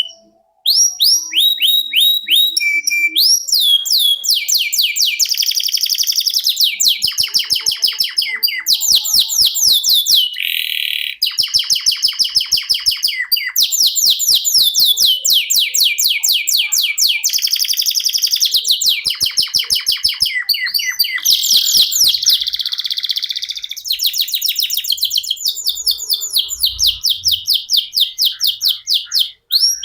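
Domestic canary singing a long, almost unbroken song of fast rolling trills. The rapid repeated notes change pattern every second or two, with a brief break just after the start and another near the end.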